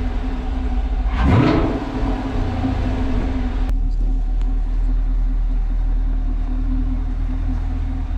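Chevrolet Camaro LT1 V8 engine revving once briefly about a second in, then running at a steady low idle.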